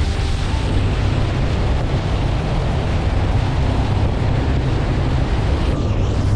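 Bass boat's outboard motor running steadily at speed, with rushing water and wind buffeting the microphone.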